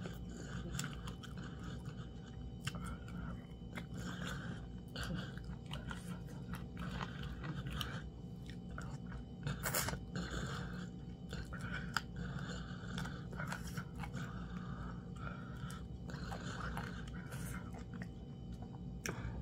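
A person chewing and biting fufu and meat in soup, eaten by hand and close to the microphone: a steady run of repeated chewing noises with a few sharper clicks.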